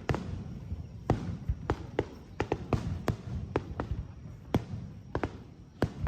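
Fireworks shells bursting in irregular quick succession: about a dozen sharp bangs over a continuous low rumble of echoing booms.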